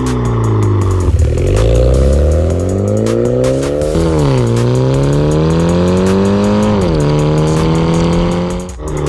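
Mini Cooper S JCW engine running through a valved sports exhaust, accelerating through the gears. The pitch climbs steadily and falls sharply at each upshift, three times, then holds and dips briefly near the end.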